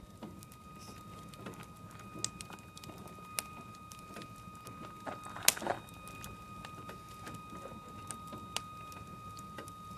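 Wood fire crackling, with irregular pops and snaps and one louder crack about halfway through, over a steady high-pitched hum.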